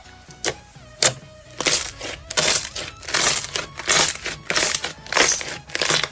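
Crunchy crackling of a material being crushed or squeezed: two sharp clicks, then a run of crackling crunches about once a second.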